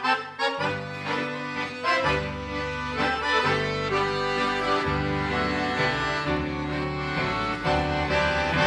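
Accordion playing an instrumental introduction, with steady held chords over a bass line that changes every second or so.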